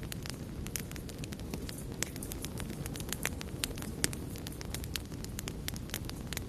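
Wood fire burning with frequent sharp crackles and pops over a steady low rumble; the loudest pop comes about four seconds in.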